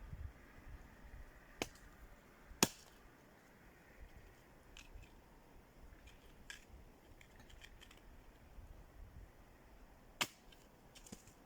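Dry kindling for a campfire snapping and crackling: three sharp loud snaps, the loudest about two and a half seconds in and another near the end, among scattered faint clicks.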